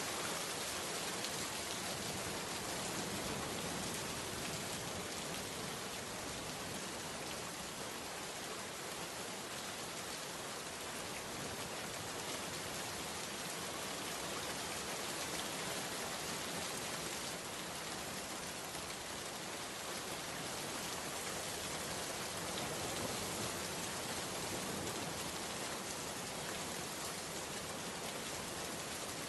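Steady rain falling, an even hiss of many drops on a surface with no distinct single impacts.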